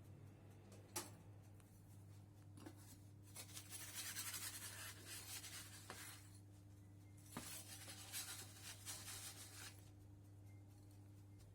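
Quiet rubbing and scraping in two stretches of a couple of seconds each, with a few small knocks, over a steady low hum.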